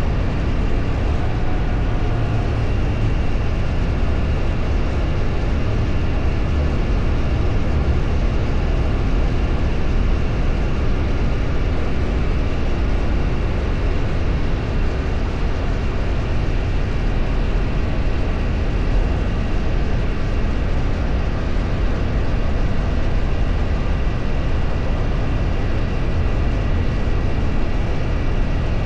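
A vehicle under way, heard from on board: steady road and wind noise with a deep, even rumble and a faint constant whine, unchanging throughout.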